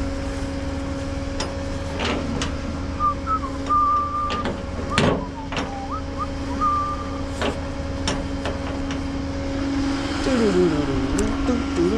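Tow truck idling with a steady hum and low rumble, while chains and hook-up gear clink and clank now and then as a vehicle is secured. A few short high whistled notes come in the middle.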